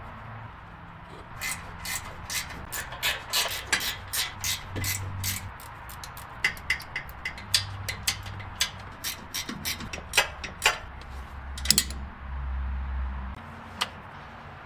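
Sharp mechanical clicks and taps from hand-tool work on the car, in two irregular runs of roughly three a second, followed by a short low rumble and a last single click near the end.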